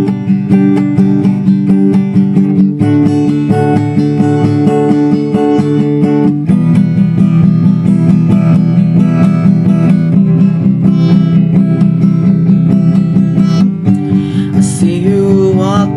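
Acoustic guitar intro to a song, chords played in a steady even rhythm and changing every few seconds.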